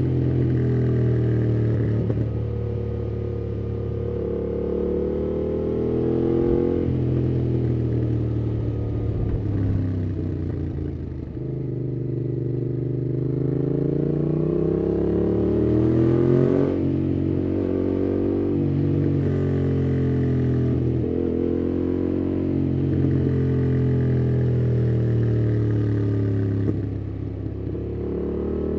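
2018 Yamaha MT-07's parallel-twin engine running through a MIIV aftermarket exhaust with its dB killer fitted, heard while riding. The engine speed rises and falls again and again through gear changes, with a long climb about two-thirds of the way through that ends in a sudden drop.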